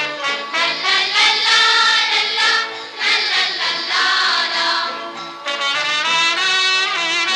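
Children's choir singing an Arabic song over musical backing; about five seconds in, the singing gives way to a brass passage.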